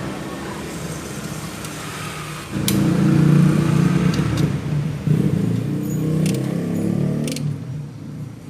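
A motor vehicle engine running, jumping louder about two and a half seconds in and dropping back near the end, with a few sharp clicks over it.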